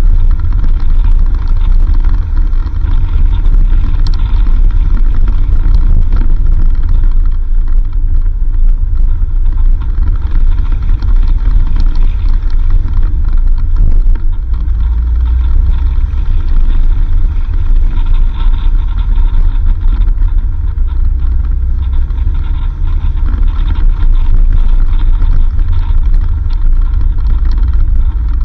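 4x4 vehicle driving on a dirt road: a steady, loud low engine and road rumble that deepens slightly about halfway through.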